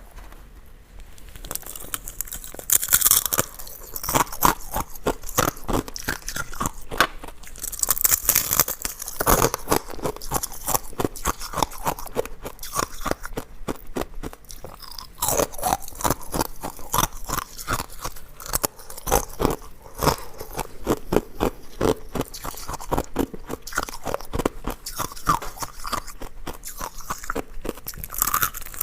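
A person biting into and chewing hard ice cubes: rapid, irregular crisp crunching and cracking, with louder bites every few seconds.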